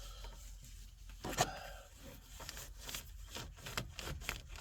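A shop rag is worked back and forth behind a Geo Metro's window crank handle to push off its spring retaining clip, giving scraping and rubbing with sharp clicks. The loudest click comes about a second and a half in, and a quick run of clicks follows near the end.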